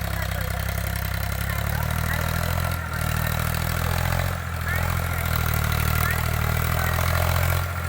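Tractor engine running steadily with a low, even hum. The sound dips briefly three times: about three seconds in, about four and a half seconds in, and near the end.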